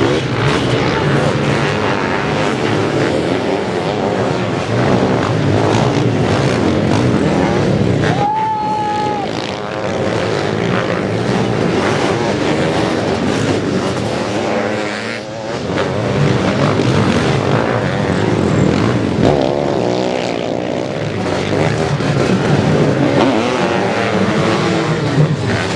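Several sidecar motocross outfits racing, their engines revving hard with rising and falling notes as they pass. A short high tone sounds briefly about eight seconds in.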